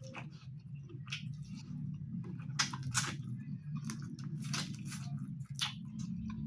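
Close-miked chewing of a chicken curry meal: wet, squishy mouth sounds with many short clicks, the sharpest a little past the middle, over a steady low hum.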